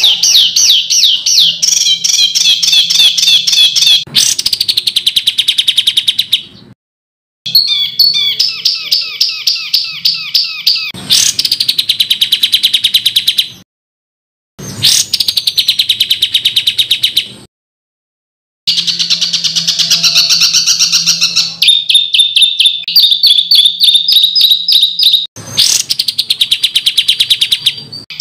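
Recorded songbird song of loud, rapid-fire runs of harsh repeated notes, many per second, of the kind used as masteran to teach competition cage birds. The phrases are spliced together and cut off abruptly into silence four times.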